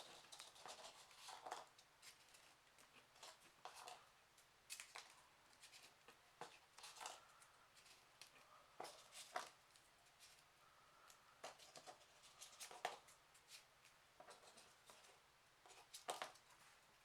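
Faint, irregular rustles and clicks of folded printer paper as 3D origami pieces are pushed into place on the model.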